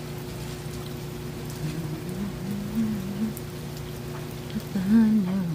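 Rain falling steadily with a faint patter of drops over a steady low hum. A low voice murmurs briefly about two seconds in, and louder near the end.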